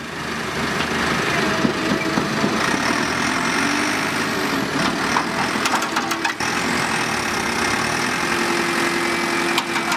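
A heavy machine's diesel engine running steadily and loudly, with a few sharp clicks or knocks about halfway through.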